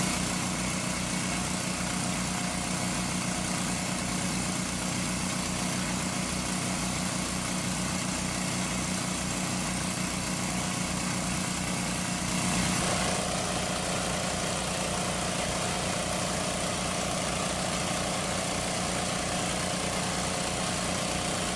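Small engine running steadily at a constant speed, with a regular low pulsing. Its tone shifts and briefly gets louder about 13 seconds in.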